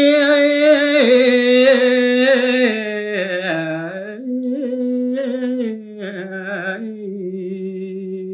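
Solo male voice singing an unaccompanied Balinese tembang (pupuh Sinom) line, melismatic and ornamented at first, then stepping down to a long held closing note that cuts off just after the end.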